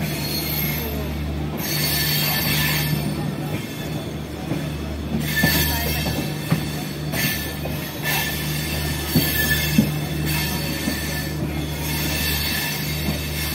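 A passenger train running slowly, heard from inside the carriage through an open window. It gives a steady low hum and rumble, with wheel squeal and hiss swelling and fading every second or two, and a few knocks near the middle.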